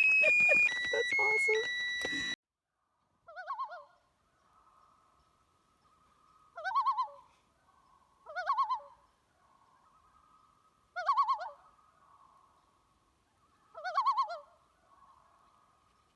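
A short run of electronic beep tones stepping up and down in pitch, cutting off sharply about two seconds in. Then a bird calls five times: short, quavering calls spaced a few seconds apart.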